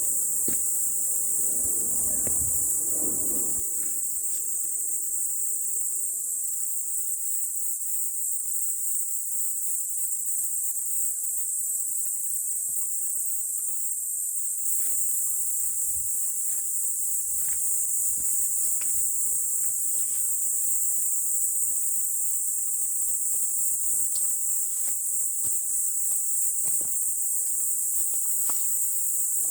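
Steady high-pitched insect chorus, with scattered light clicks and some low rumble in the first few seconds.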